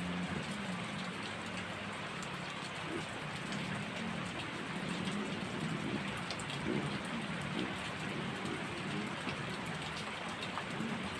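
Heavy rain falling steadily, with individual drops ticking on nearby surfaces over the even hiss of the downpour.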